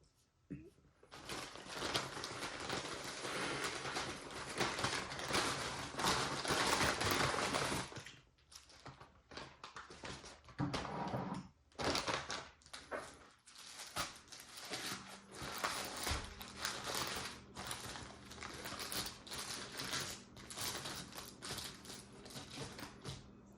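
Paper wrapper crinkling and rustling as it is handled: a dense stretch of crackling over the first several seconds, then irregular crackles and light taps.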